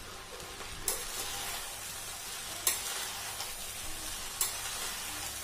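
Vegetable fried rice sizzling in a steel pan as it is stirred with a steel spatula, with three sharp clinks of metal on steel about two seconds apart.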